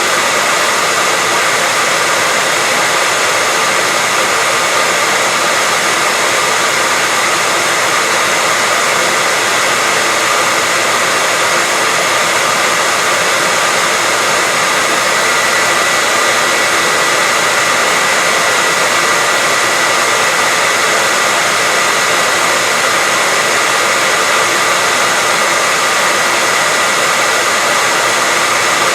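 Hair dryer running steadily: a loud, even rush of air with a steady high whine from its fan motor.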